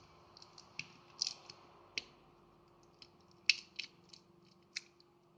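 Light, irregular clicks and ticks of small tools and plastic parts while a smartphone is being taken apart, the sharpest click about three and a half seconds in.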